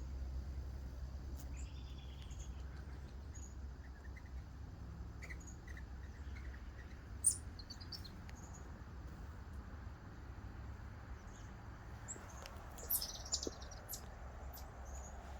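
Small birds chirping sporadically, with short high calls scattered through and a quick flurry about 13 seconds in, over a steady low rumble.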